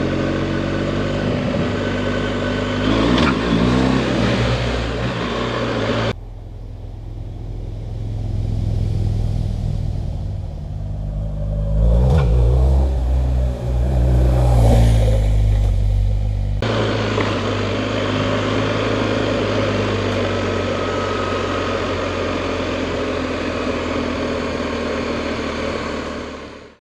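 BMW GS Adventure motorcycle engine running on the move, with wind and road noise. About six seconds in, the sound turns abruptly duller for about ten seconds, and the engine revs up partway through, before the fuller noise comes back.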